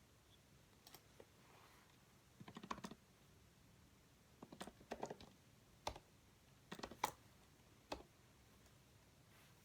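Typing on a computer keyboard in a few short, irregular bursts of keystrokes with pauses between them, the fastest run about two and a half seconds in.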